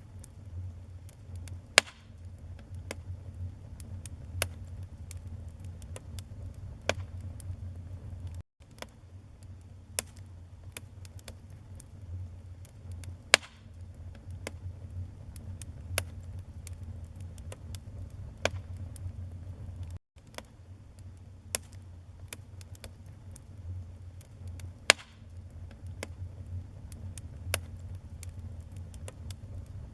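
Wood fire crackling in a fireplace: a steady low rumble of flames with irregular sharp pops and crackles, and a few louder snaps. The sound cuts out for an instant twice.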